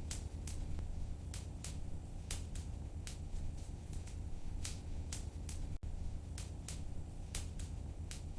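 Fire crackling in a fireplace: irregular sharp pops and snaps, a few a second, over a steady low rumble.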